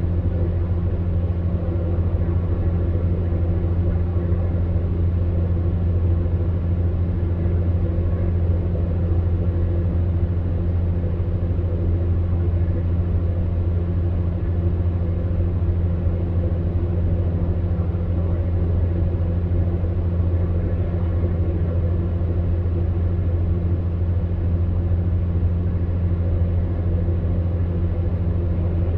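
Electric fan heater running steadily: a constant low hum from the motor under the even rush of the fan's airflow, with no change in speed.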